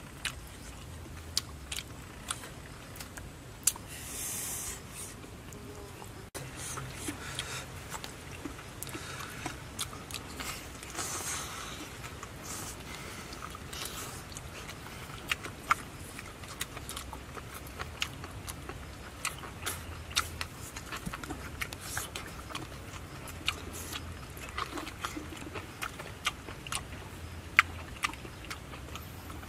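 Close-up chewing and lip-smacking as two people eat pieces of fried meat, with many sharp wet smacks. Two short hissing sounds come in about four seconds in and again about eleven seconds in.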